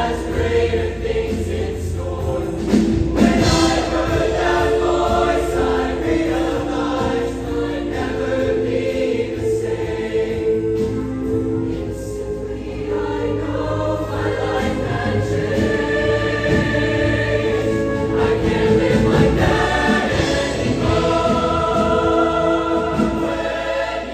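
Show choir singing long held chords that shift every second or two, over a steady low accompaniment.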